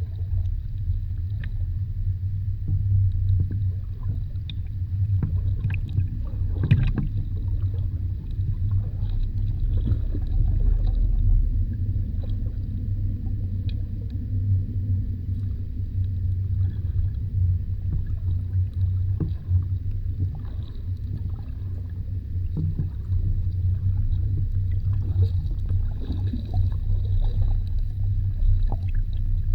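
Underwater audio from a lagoon floor: a steady low rumble with scattered small clicks and crackles, and one louder crackle about a quarter of the way in.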